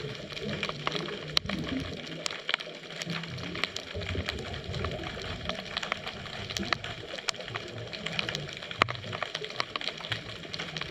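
Underwater ambience picked up by a camera in its waterproof housing: a steady hiss scattered with irregular sharp clicks and crackles, over a low, uneven rumbling that drops away briefly about two seconds in.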